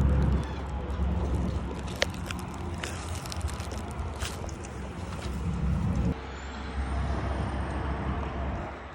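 A heavy vehicle's engine running with a steady low rumble that drops in level twice, with a few sharp metallic knocks and clicks in the middle. A faint high whine rises and holds near the end.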